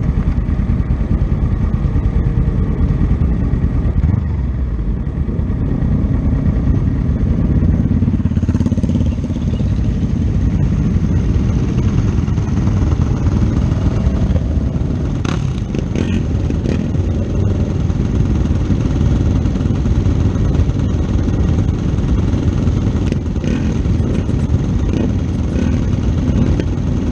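Race motorcycle engine running hard, its pitch rising and falling with gear changes, under a loud steady rush of noise.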